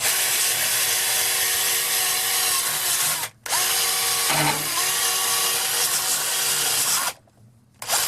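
Small electric power tool spinning a polishing wheel against a steel auger bit to buff off rust, its motor running at a steady speed. It is switched off briefly about three seconds in, runs again, then stops for about a second near the end before starting once more.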